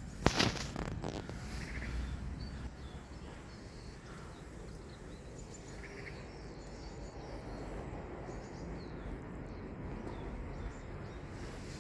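Outdoor ambience: a low, steady rumble with faint, scattered bird chirps, and one sharp knock just after the start.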